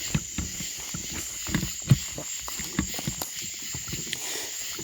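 Irregular crunching and crackling steps through dry leaves and twigs on a forest floor, over a steady high drone of night insects.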